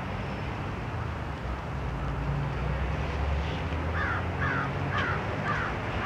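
A bird calling about five times, roughly two calls a second, starting about four seconds in, each short harsh call falling in pitch. Under it runs a steady low rumble of distant city traffic.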